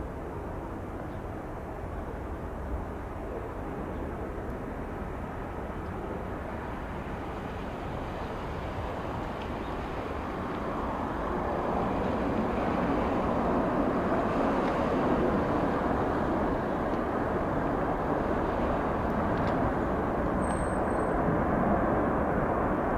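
Jet airliner engine noise, a steady rushing roar that swells louder about ten seconds in and holds.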